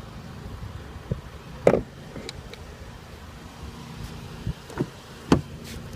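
Steady low background rumble with a few short, soft knocks, about two seconds in and twice more near the end.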